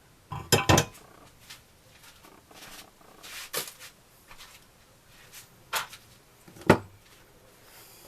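Hand tools and metal parts clinking and knocking against each other and a hard surface: a handful of sharp strikes, the loudest a quick cluster just after the start and single ones about two-thirds through.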